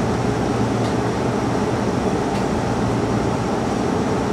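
Steady hum and hiss of an electric train standing still at a platform, its air conditioning and auxiliary equipment running, with a low hum underneath and a couple of faint clicks.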